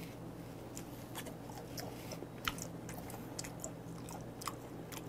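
A man chewing raw beef close to a clip-on microphone: wet mouth clicks and smacks, several a second, over a steady low hum.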